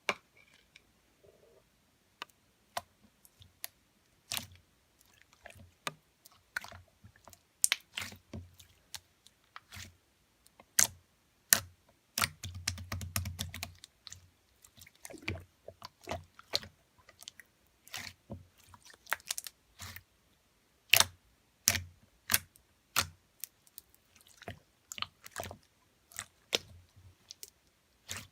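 Irregular sharp clicks and taps, a few each second, with a short low rumble about halfway through.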